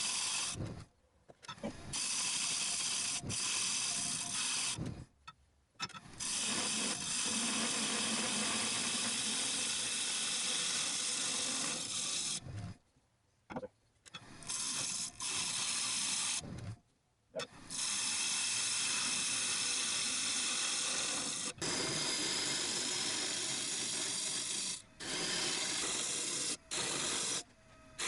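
Wood lathe turning a blank while a gouge cuts into the spinning wood: a steady cutting noise that stops abruptly several times and starts again. The blank is off-centre firewood, expected to run out of balance.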